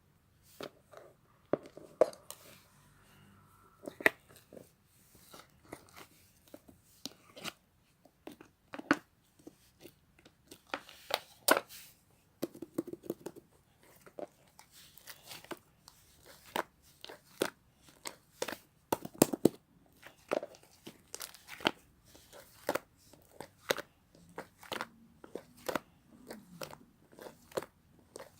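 Mixed slime being squeezed, folded and stretched by hand, giving off irregular sharp pops, clicks and crackles as air pockets burst.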